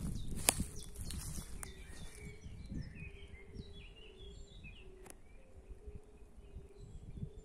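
Songbirds chirping and singing in short phrases, with a few footstep crunches and rustles in dry grass during the first half-second.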